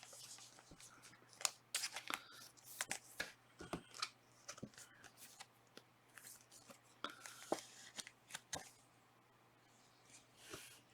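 Trading cards being handled and flipped through one after another: short irregular clicks and soft rustles of card stock and pack wrapper.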